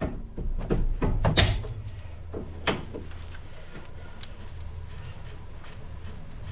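Sharp metallic knocks and clicks of a 24 mm spanner working a nut on the car's steering linkage as it is broken loose, several in the first three seconds, then a steady low hum.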